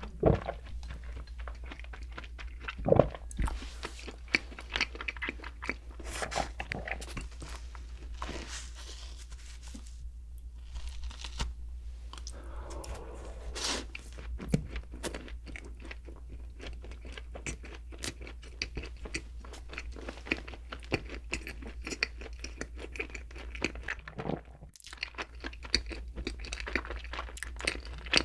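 Close-miked eating sounds: doughnuts being bitten and chewed, with irregular crunching and wet chewing and a few louder bites.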